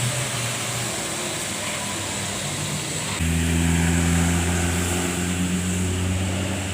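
Road traffic: a vehicle engine runs steadily under a wash of road noise, and the hum becomes louder and deeper about three seconds in.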